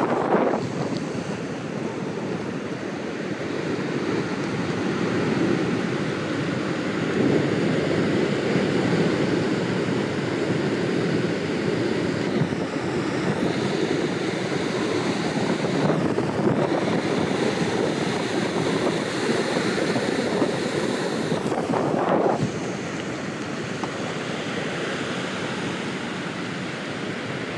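Big-wave ocean surf breaking and rushing, a steady low roar with wind buffeting the microphone.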